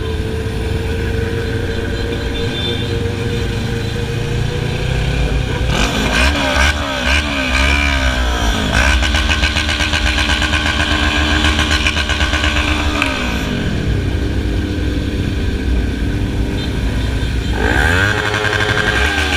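Motorcycle engine running under way, its revs rising and falling through gear changes about a third of the way in, then holding steady, dropping, and climbing again near the end.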